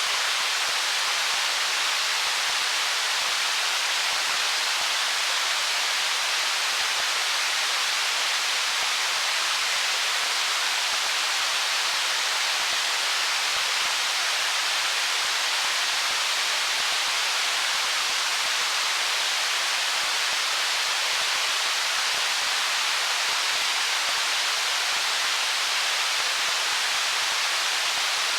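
Stream water flowing over rocks: a steady, unbroken rushing hiss.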